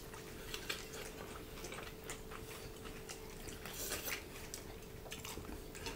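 Faint chewing by two people eating with their fingers, with scattered small clicks from mouths and hands, over a steady faint hum.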